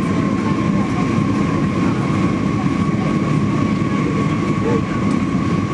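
Airliner cabin noise in flight: a steady, even rumble of engines and airflow with a thin, constant high whine over it.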